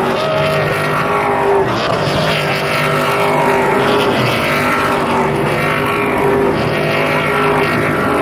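Stadium Super Truck engines running hard during a race, several at once, their pitches holding steady and then sliding as they rev and shift.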